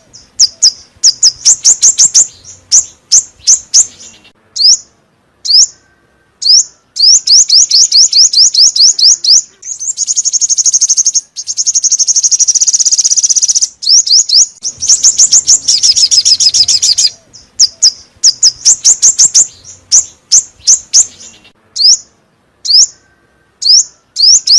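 Lure recording of the song bird known in Vietnam as chim 5 màu (five-colour bird): loud, rapid runs of short high chirps, each sweeping downward. A longer buzzy trill comes about ten seconds in, with short pauses and single chirps between the bouts. The sequence repeats as a loop.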